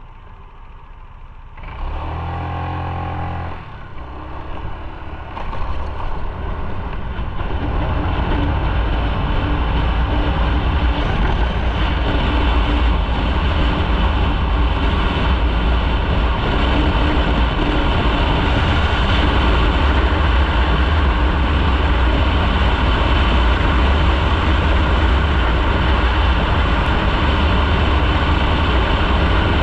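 Motorcycle on the road: a brief steady engine note about two seconds in, then the sound builds over a few seconds as the bike gets under way, settling into steady loud riding noise with a heavy low rumble.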